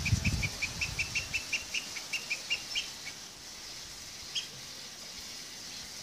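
A bird calling a rapid series of short, high chirps, about five a second, which stop about three seconds in, with one more chirp a little later. A brief low rumble sounds in the first second.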